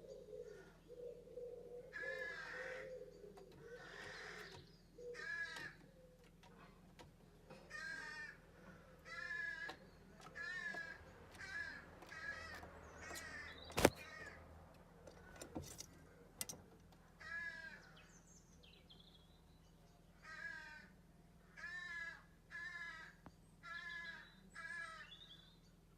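Barn owl giving short raspy calls over and over, about one a second, with a break of a few seconds in the series. There is a single sharp click about halfway through.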